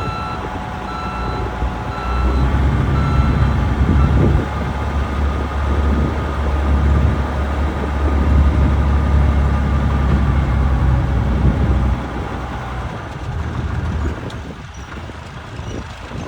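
1989 Ford F700 dump truck's engine running with a low rumble, while a reversing alarm beeps about once a second for the first few seconds. The engine gets louder about two seconds in and eases off near the end.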